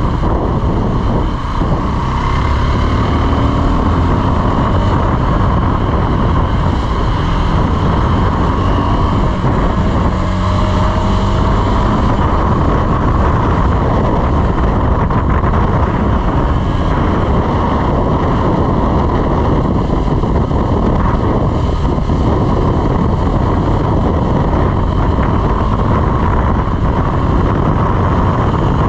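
KTM 390 Adventure's single-cylinder engine running at road speed under steady wind rush over the microphone, its pitch rising and falling a little in places.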